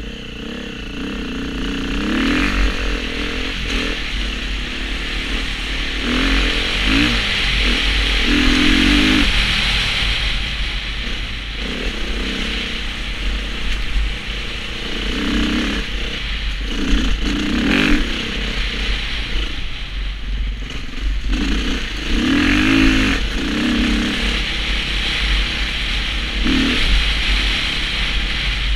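Dirt bike engine running under load, revving up and easing off again and again as the rider works the throttle, over a steady rushing noise.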